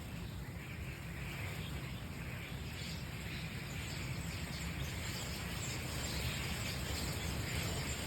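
Dense chatter of a large flock of hundreds of birds, countless calls blending into a continuous din that grows slightly louder.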